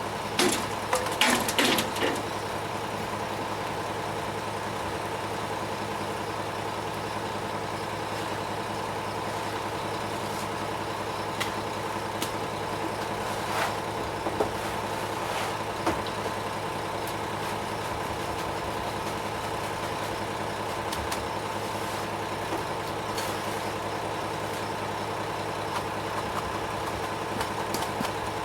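Ready-mix concrete truck's engine running steadily, with a few short knocks and clatters over it.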